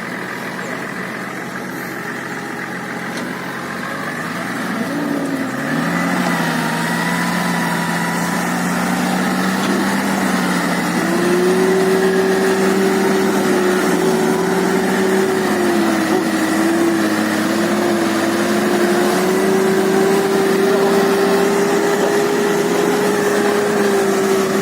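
Toyota Land Cruiser engine pulling under load on a rough off-road track. Its note climbs about five seconds in, steps up again near the middle, and then wavers as the throttle comes on and off.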